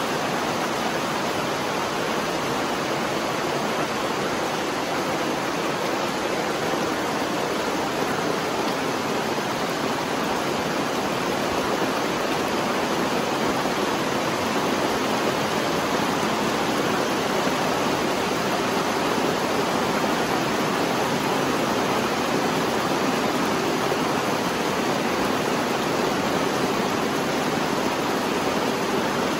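Steady rain, an even hiss with no single drops or other events standing out.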